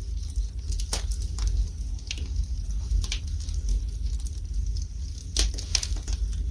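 Wood fire burning in a fireplace: a steady low rumble with irregular sharp crackles and pops, a few seconds apart, two close together near the end.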